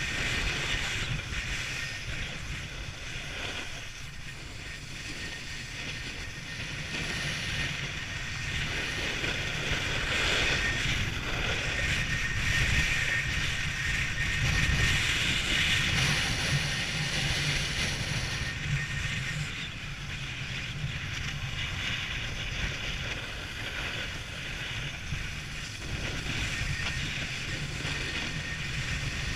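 Strong wind buffeting the microphone during a downhill run: a continuous rushing roar with a low rumble, swelling louder around the middle and easing again.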